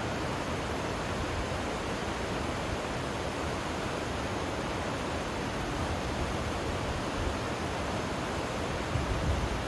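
River water rushing steadily over its bed, an even, continuous hiss, with a few louder low bumps near the end.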